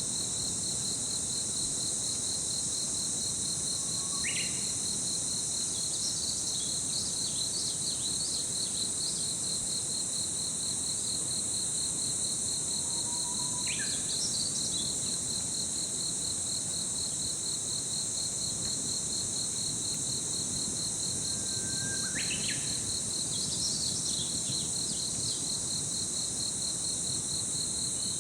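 A steady insect chorus of crickets: a fast pulsing trill with a continuous high shrill above it. A bird gives a short call three times, a low note followed by a quick rising note, about nine seconds apart, with a few high chirps after each call.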